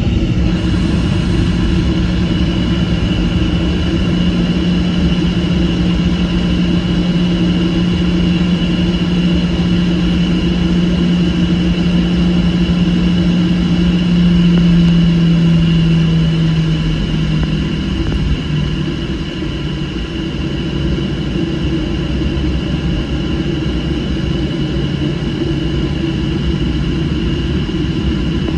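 Boeing 737 jet engines and rushing air heard from inside the cabin during the climb: a steady roar with a low hum that steps down in pitch about seventeen seconds in as the engine power changes.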